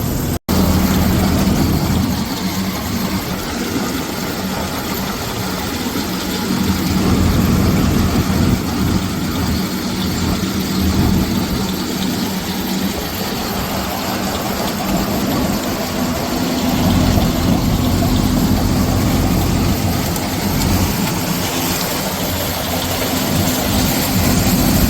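John Deere combine running steadily as it starts harvesting corn: a loud, even engine and machine drone with a steady hum, which moves to a higher pitch about two-thirds of the way through.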